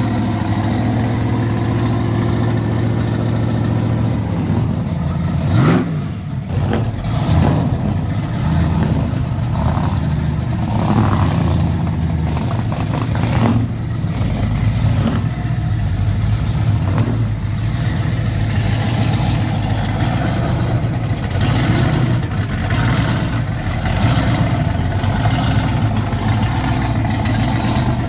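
Muscle car engines idling and revving as the cars pull away, a steady engine drone with brief revs now and then.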